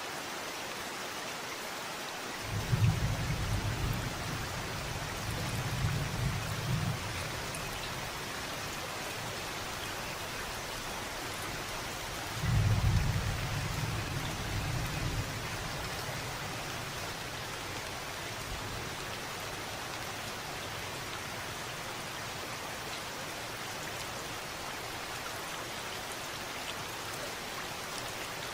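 Steady rain falling, with two low rumbles of thunder: one a few seconds in that lasts about four seconds, and a shorter one about twelve seconds in.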